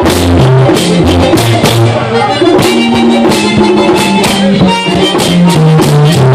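Dominican merengue típico band playing: tambora and güira keep a steady beat under a moving electric bass line.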